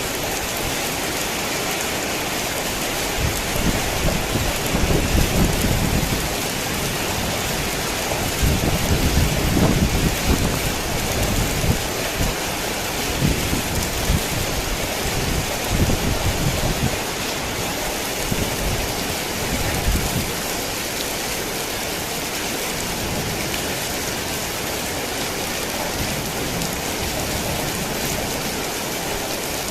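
Heavy rain falling steadily, with rolling thunder rumbling in several low swells from a few seconds in until about two-thirds of the way through. After that the rain goes on alone.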